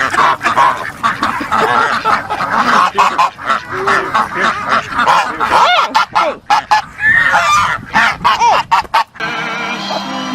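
Several geese honking over one another in a dense, continuous chorus. The calls break off about nine seconds in, and music takes over.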